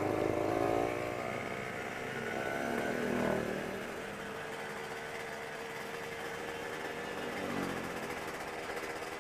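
Motorcycle engine running while riding: the engine note drops, climbs again as the rider accelerates about two to three seconds in, then holds steady at cruising speed.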